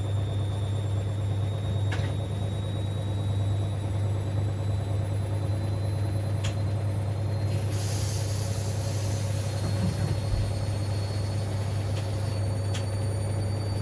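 Siemens Extraklasse XLs 140 A washing machine running: a steady motor hum with a faint high whine that slowly rises in pitch, and a few light clicks.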